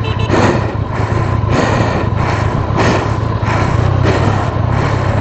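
Motorbike ridden slowly over icy, snow-covered road among traffic: a steady low engine hum under rough road and wind noise that swells every half second or so.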